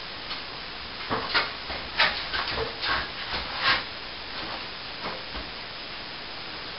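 Hand tool scraping and knocking against a plaster wall: a run of short, irregular strokes from about a second in to about four seconds, over a steady hiss.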